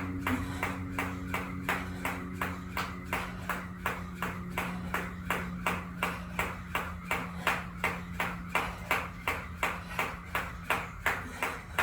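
Skipping with a jump rope: the rope slaps the floor and the feet land in a steady rhythm, about three strikes a second.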